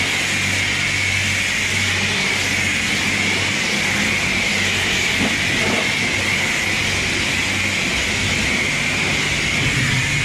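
High-pressure wand at a coin-op car wash spraying rinse water onto a car: a steady, loud hiss of water jet and spray on the bodywork, with a low hum under it for the first few seconds.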